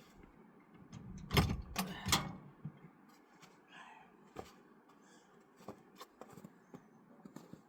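A few knocks and rattles, loudest twice in quick succession about a second and a half to two seconds in, followed by light scattered clicks.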